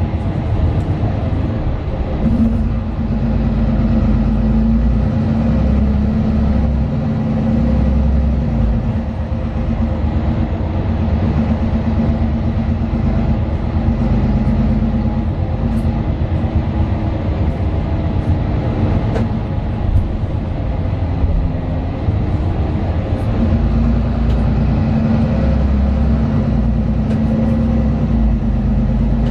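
Mercedes-Benz Citaro 2 city bus's OM 936 six-cylinder diesel engine running steadily as the bus drives, heard from inside the passenger cabin. The engine note changes a couple of seconds in and again later on.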